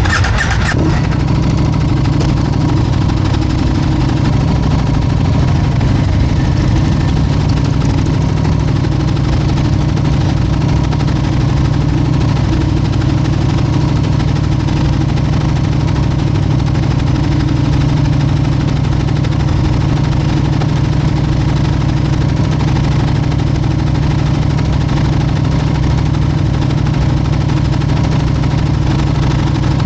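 Motorcycle engine idling steadily, with a short clatter in the first second.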